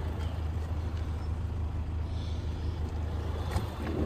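Steady low hum of a vehicle engine idling, with a few faint clicks near the end.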